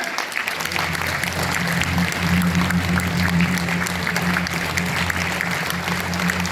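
Audience applauding, with a steady low tone that comes in about half a second in and holds underneath.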